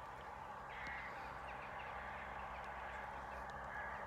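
A large flock of crows in a field, thousands of birds cawing and chattering at once as a steady, distant mass of calls, with a few clearer calls about a second in.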